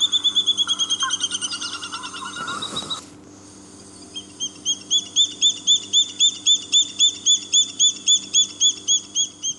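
Water thick-knee calling in a series of clear whistles. A fast run of notes slows, fades and breaks off about three seconds in. A new run at about four notes a second then swells to full strength.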